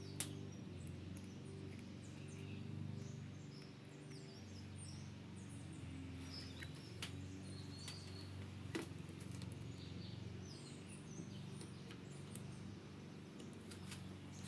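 Faint bird chirps over a steady low hum, with a few sharp clicks.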